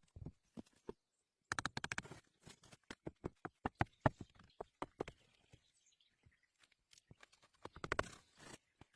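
Dry twigs and leaves crackling and snapping as they are handled, in irregular clicks with two dense clusters, about a second and a half in and near the end.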